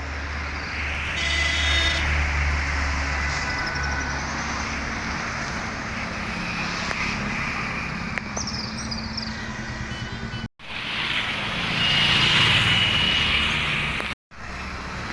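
Steady road traffic noise at a busy city junction: vehicle engines running and passing, with a louder swell near the end. The sound cuts out briefly twice near the end.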